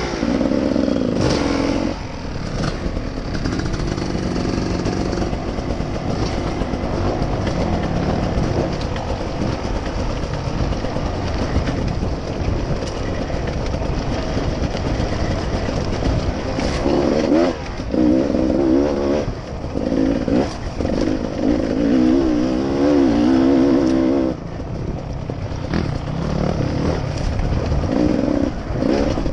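A vehicle engine running while under way over a steady rushing noise. Its pitch rises and falls repeatedly from about 17 to 24 seconds in.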